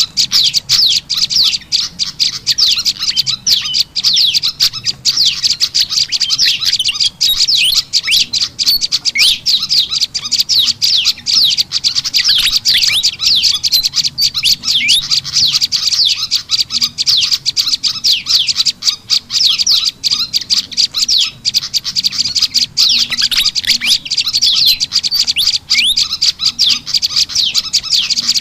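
Lure recording of small songbirds, the calls of the prenjak lumut mixed with those of the kipasan ribut fantail, chirping in a dense, rapid, unbroken stream of high, sharp notes.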